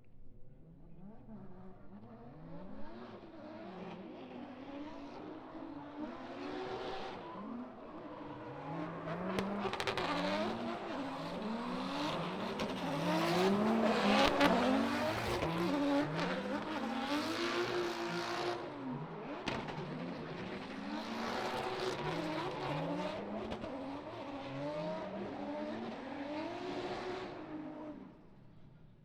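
Drift car's engine revving up and down again and again as it slides, with tyre screech over it; loudest about halfway through, dropping away near the end.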